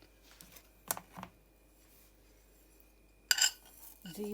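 Kitchen utensils clinking against bowls and spice containers: two light knocks about a second in, then a louder, sharper clatter near the end.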